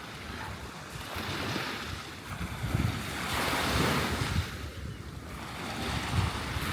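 Sea waves washing on the shore, one wave swelling and breaking about three seconds in, with wind gusting on the microphone.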